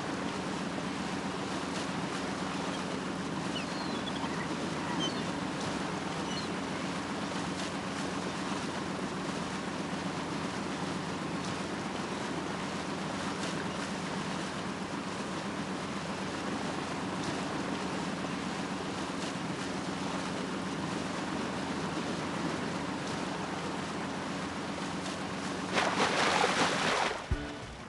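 Cartoon motorboat running steadily over water: a constant engine drone under a rush of water and wind noise. A louder rush of noise comes about 26 seconds in.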